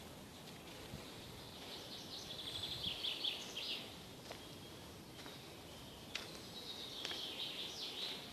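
A songbird singing two trilling song phrases, each about two seconds long: one a couple of seconds in and another near the end, with a few faint sharp clicks in between.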